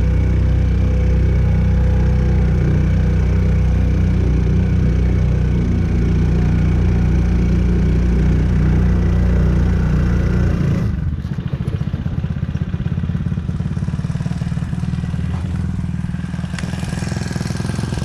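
Hangkai 4 hp air-cooled four-stroke outboard motor running steadily during its break-in. About eleven seconds in it drops suddenly to a lower, slower beat.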